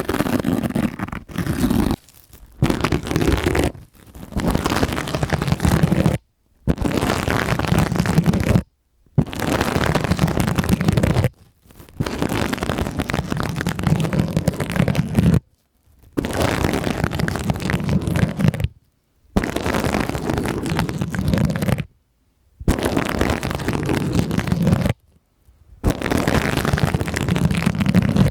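Sponges squeezed and rubbed right against a microphone, giving a dense crackly squishing in strokes of two to three seconds with brief silent gaps between them.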